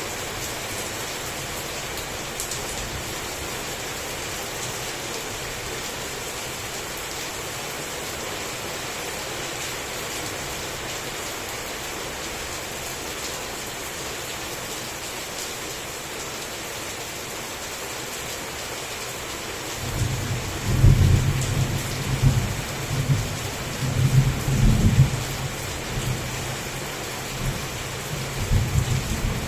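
Heavy rain falling steadily. About twenty seconds in, a long roll of thunder starts, a deep rumble that swells and eases several times.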